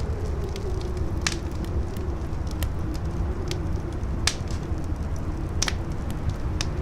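Howling wind, a low rumble with a wavering moaning tone that drifts up and down, over a crackling fire giving scattered sharp pops, the loudest about four seconds in.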